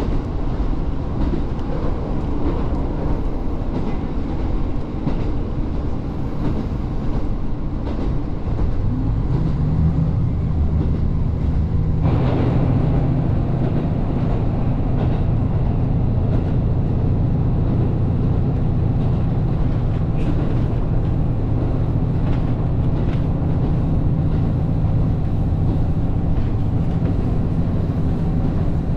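Diesel train running, a steady low rumble with an engine drone that grows stronger from about ten to twelve seconds in and then holds steady.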